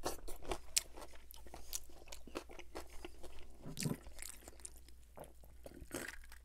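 Close-miked chewing of a pickled pepperoncini pepper: wet crunches, lip smacks and mouth clicks, irregular throughout.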